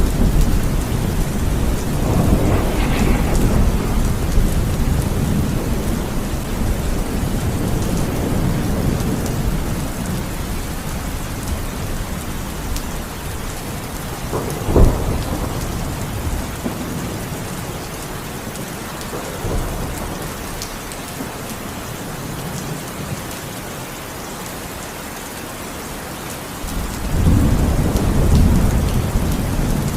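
Heavy rain falling steadily, with thunder rumbling low: a short, sharper crack about halfway through and a longer, louder rumble near the end.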